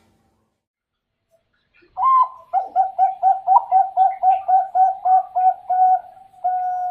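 Zebra dove (perkutut bangkok) singing: an opening coo, then a quick run of about a dozen short coos at about four a second, ending in one longer held coo. The first two seconds are silent.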